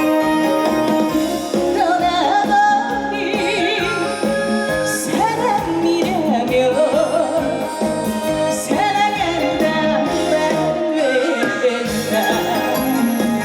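Live trot song: a woman singing with heavy vibrato over a band backing track with a steady beat.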